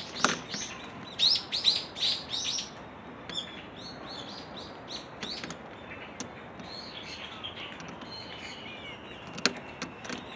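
Small birds chirping: a run of quick, high, downward-sweeping chirps about a second in, then softer chirps a few seconds later, over faint outdoor background noise, with a couple of sharp clicks near the end.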